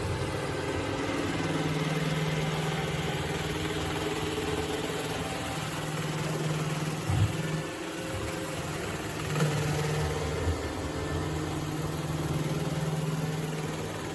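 Robot vacuum cleaner running, a steady motor hum that dips for a moment about halfway through, with a few brief knocks.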